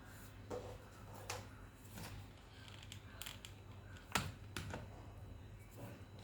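Light, irregular clicks and taps of wooden popsicle sticks being handled and pressed into place on a CD, the sharpest about four seconds in.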